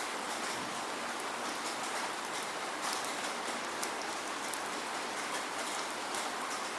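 Steady rain falling without thunder: an even hiss of downpour with many small drop ticks scattered through it.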